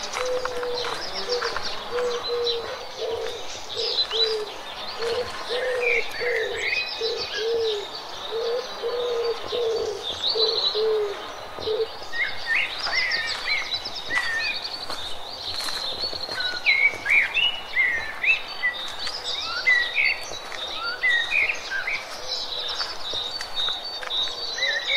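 Birds calling: one bird gives a low, repeated call, nearly two notes a second, which stops about twelve seconds in, while small birds chirp and twitter throughout, busier in the second half.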